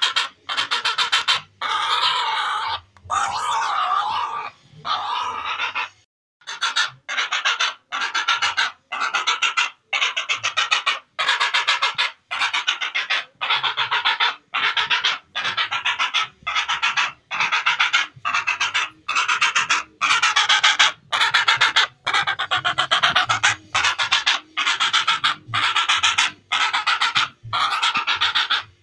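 Heron calls: harsh, rasping croaks repeated about once a second, with a few longer, wavering calls in the first few seconds.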